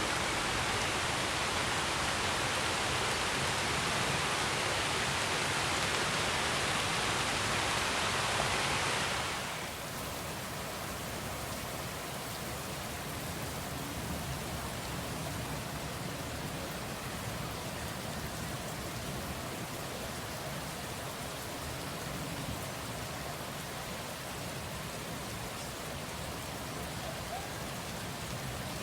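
Steady rain, heavy and hissing for about the first nine seconds, then cutting abruptly to a softer, duller rainfall.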